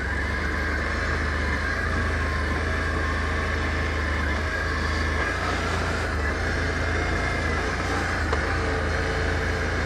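Can-Am ATV engine running steadily as the machine comes downhill on engine braking, with no brakes applied.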